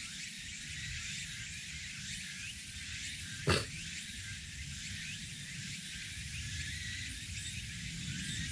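Small wood campfire with a steady low rumble and hiss, and one sharp crack about three and a half seconds in.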